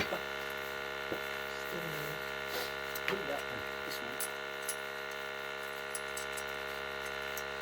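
Scratchy rubbing and light clicks of an oil-burner part being scrubbed clean by hand with steel wool, over a steady hum.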